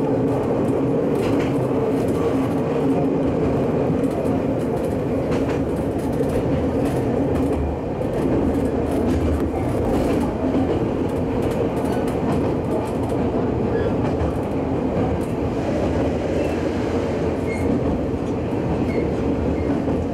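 Hokuriku Railroad electric commuter train running along the track, heard from inside the driver's cab: a steady rumble of wheels on rail with a low, even hum and now and then a faint click of the wheels over the rails.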